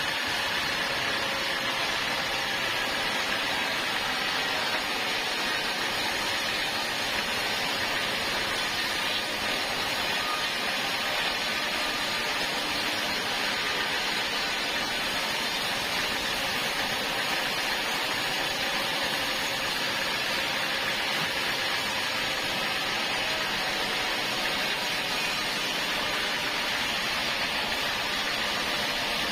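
Sawmill saw and its machinery running steadily, an even hiss with a faint hum underneath that holds constant without a break.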